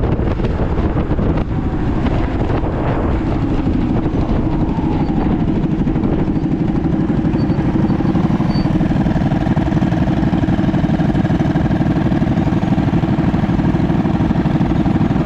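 Mini bike engine running at a steady speed, its note shifting a little in the first few seconds before holding even.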